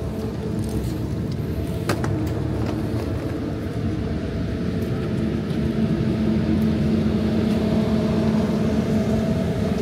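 Steady hum of an SBB regional electric train standing at the platform, a few even tones in it growing a little louder toward the end. A single sharp click about two seconds in.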